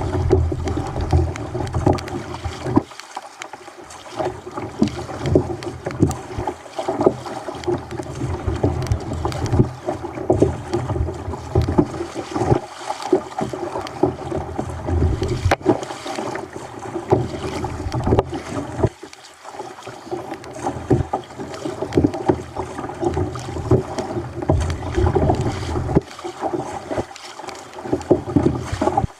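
Water splashing and sloshing against a kayak's hull on a choppy sea, surging and easing irregularly, with some wind on the microphone.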